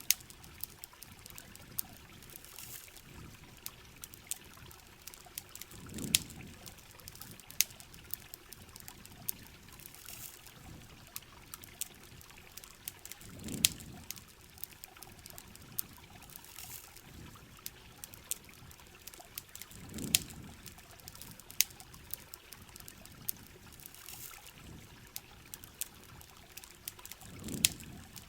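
Heavy rain falling steadily with sharp crackles and pops from a campfire scattered throughout, and a low swell of running water coming back about every seven seconds.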